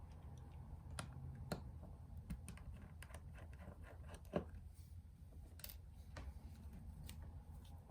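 Scattered light clicks and taps of small hard parts and tools being handled, roughly one a second, the sharpest about four seconds in, over a faint low hum.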